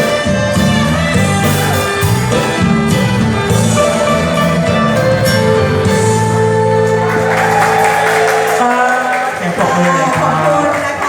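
Live band music with a steady bass line, and a voice singing over it in the second half.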